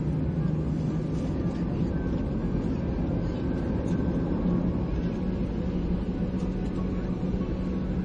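Boeing 737-800's CFM56 jet engines running, a steady rumble with a constant low hum, as heard inside the passenger cabin.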